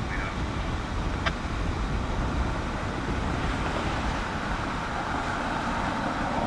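Steady low rumble of vehicle noise, with a single click about a second in.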